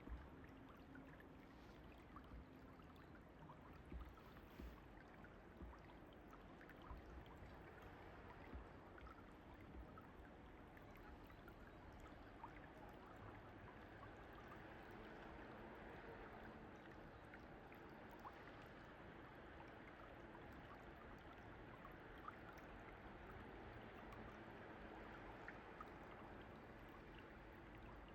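Faint, steady rush of a flowing mountain stream, with a few soft low thumps in the first several seconds.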